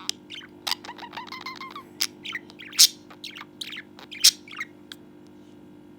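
Budgerigar chirping and warbling: a quick run of short chirps, clicks and chattering notes that stops about five seconds in.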